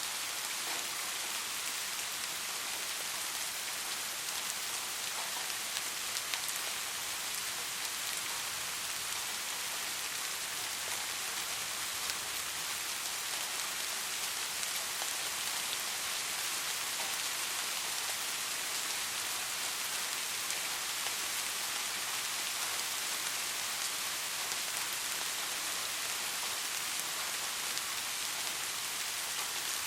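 Steady soft rain falling in a forest, an even hiss of drops with faint scattered individual drop ticks.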